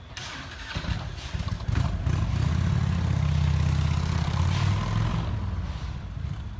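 A vehicle engine passing close by: a low drone that swells over a couple of seconds, holds loud, then fades near the end.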